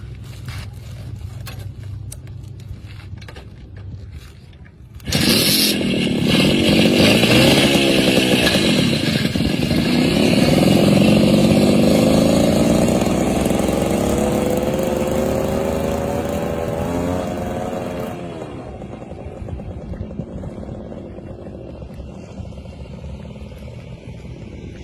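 Minsk 125 single-cylinder two-stroke motorcycle engine, quiet at first. About five seconds in it turns suddenly loud and revs up and down, then its pitch climbs steadily as it pulls away, and it drops back quieter near the end.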